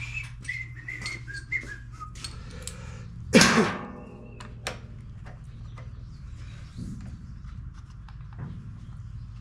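A person whistling a few notes of a tune over a steady low hum, with one short, loud mechanical burst about three and a half seconds in that falls in pitch as it dies away.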